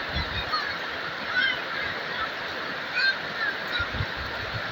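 Steady rain falling, with short high chirps scattered through it.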